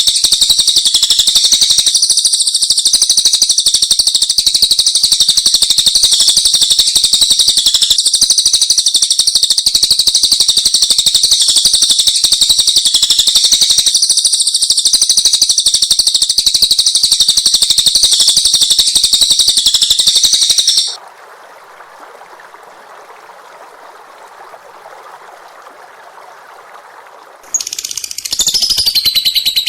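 Recorded songbird song: a dense, rapid, high-pitched twittering that cuts off abruptly about two-thirds of the way through. A few seconds of quieter hiss follow, then a different run of bird calls with falling notes starts near the end.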